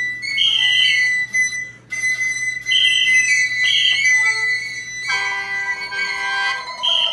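Contemporary chamber music: a Chinese bamboo flute (dizi) plays short, bright high notes over a sustained high tone, and a held chord of several notes enters about five seconds in.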